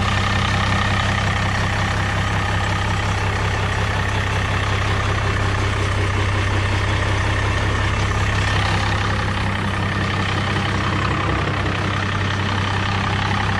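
1965 Farmall 706's six-cylinder diesel engine idling steadily and running smoothly.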